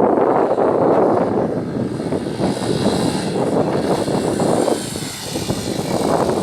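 Yamaha XTZ 250 Lander's single-cylinder four-stroke engine running hard under throttle, easing off briefly about five seconds in and then picking up again.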